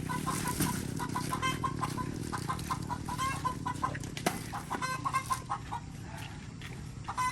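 Chickens clucking, short calls repeated again and again, over a steady low hum, with a single sharp knock about four seconds in.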